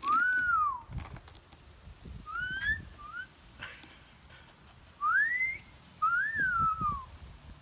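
Pet cockatoo whistling five short notes, some rising and some arching up and falling back, with gaps between them.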